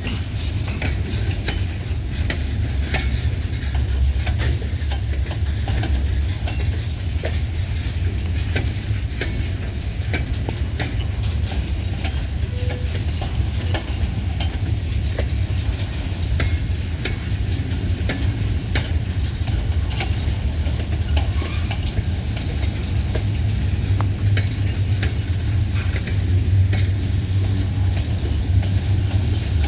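Freight train rolling slowly: a steady low diesel locomotive rumble under many irregular clicks and ticks from the cars' wheels on the rails.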